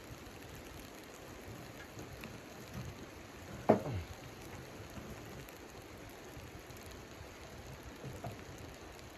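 Steady pattering of precipitation on tent fabric, with one sharp knock about three and a half seconds in.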